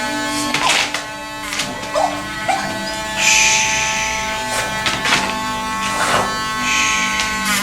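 Battery-powered dog nail grinder running with a steady buzz, with a spell of rasping about three seconds in and another near the end as it sands down a nail.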